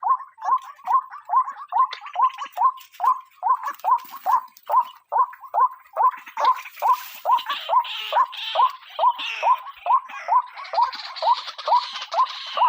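White-breasted waterhen calling: a monotonous series of short 'kruak' notes, about three a second, with a rougher chattering added over them from about halfway.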